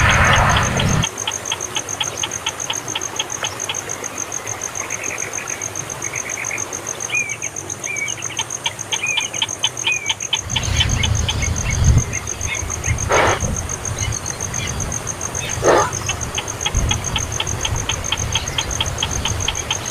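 Baby bird chirping: short high chirps repeated about four times a second, with short rising chirps between them and two sharper, louder calls in the second half. A steady high pulsing trill runs underneath, and a low rumble comes in about halfway.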